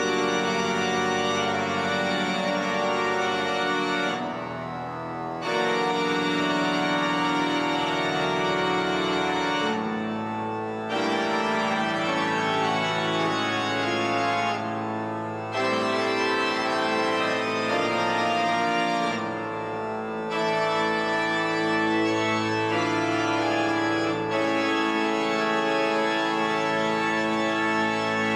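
The pipe organ of St. Peter's Basilica playing slow, full sustained chords over low pedal notes, with a short lift between phrases every few seconds.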